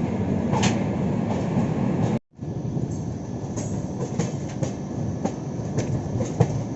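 Express train with LHB passenger coaches running on the rails: a steady rumble with scattered clicks of the wheels over rail joints. It cuts out for an instant about two seconds in, then resumes.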